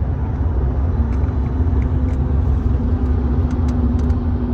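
Steady low rumble of a car. A steady hum joins in about a second in, and there are a few faint clicks.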